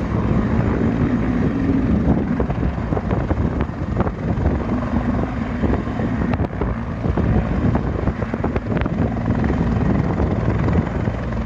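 Disaster-prevention rescue helicopter running close by: loud, steady rotor and engine noise.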